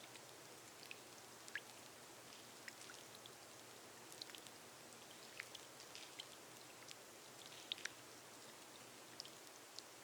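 Faint, steady rain on a glass roof, with scattered single drops ticking sharply at irregular intervals.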